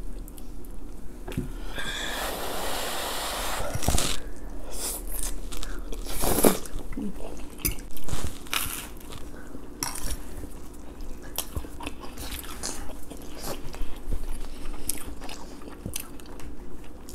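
Close-miked eating sounds: biting and chewing of spaghetti and crusty garlic bread, with a dense crunchy stretch about two seconds in and many small sharp crackles after it.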